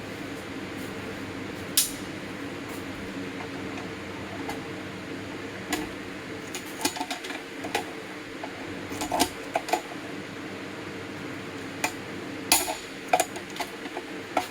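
Irregular metallic clinks and knocks of steel tools and parts being handled while the old camshaft bearings are driven out of the Case 207D block. A shop fan hums steadily underneath.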